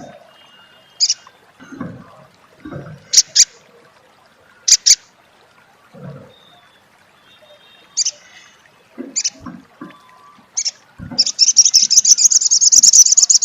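Sunbird calling: sharp, high single chips spaced through, then a fast, loud rattling chatter, the 'crecet' call, over the last two and a half seconds.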